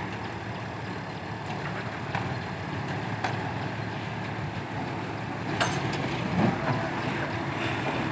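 Heavy diesel engine running steadily at a low rumble, with a few sharp metallic clicks and knocks.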